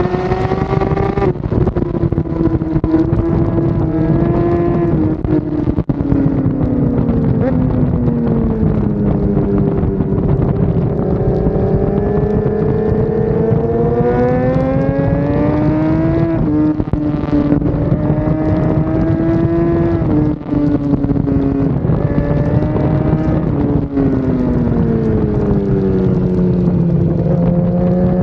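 BMW S1000RR race bike's inline-four engine running hard on track, its note climbing and falling through corners over several seconds, with a few brief breaks in the sound at gear changes.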